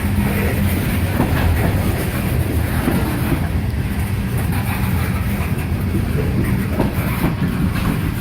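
Freight cars of a slow manifest train rolling past, a steady rumble with the clickety-clack of wheels over rail joints.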